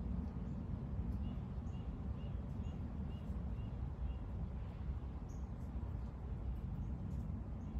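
A small bird calling a quick run of about eight short high notes, two or three a second, over a steady low rumble.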